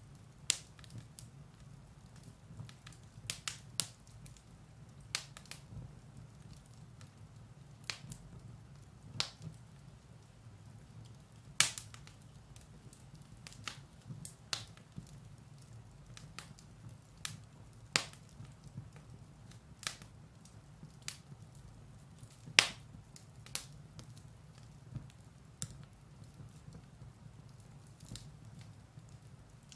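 Firewood burning in a fireplace, crackling with sharp, irregular pops over a faint low hum; the loudest pops come a little before halfway and about three quarters through.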